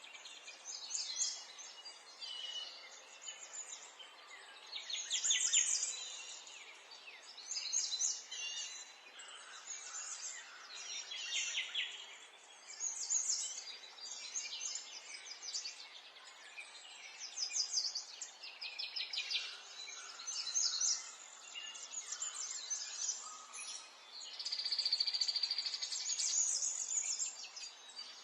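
Several small songbirds singing and chirping, with overlapping trills and quick runs of high chirps following one another every second or two, over a faint steady background hiss.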